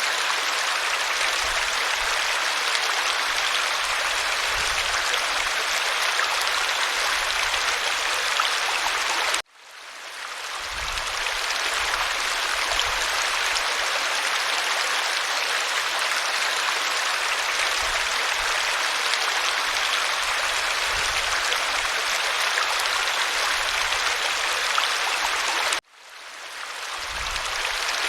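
Waterfall: a steady rush of falling water. It cuts out suddenly twice, about sixteen seconds apart, and each time fades back in over a couple of seconds.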